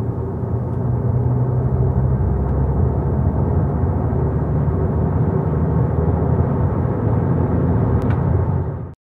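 Volkswagen Passat 2.0 TDI four-cylinder diesel accelerating hard in fifth gear, heard from inside the cabin: a steady low engine drone over road and wind noise, slowly climbing in revs as the car gathers speed. The sound cuts off suddenly near the end.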